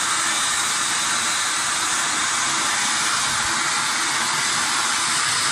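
Giant firework fountain of black powder and titanium powder burning, giving out a steady hiss of spraying sparks.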